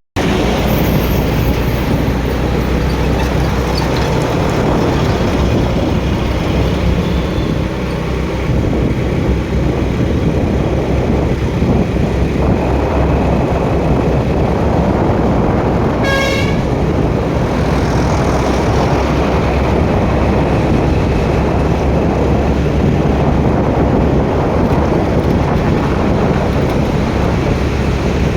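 Steady noise of city road traffic, with one short vehicle horn toot about halfway through.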